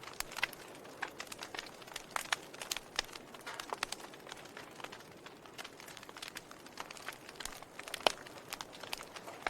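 Wood fire crackling: a steady low hiss of burning logs with irregular sharp pops and snaps, the loudest pop about eight seconds in.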